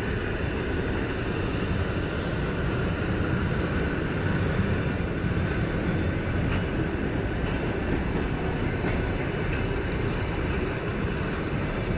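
Russian Railways passenger coaches of an arriving train rolling past on the rails, a steady rumble of wheels and running gear.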